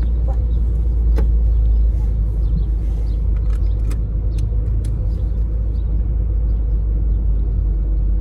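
Volkswagen Golf's engine running, heard from inside the cabin as a steady low rumble, with a few light clicks.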